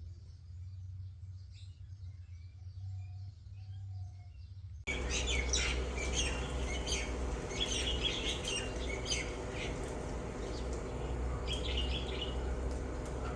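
Parakeets calling: a few faint chirps at first, then, about five seconds in, an abrupt change to a louder, busy flock of repeated chirps and squawks over a steady low hum.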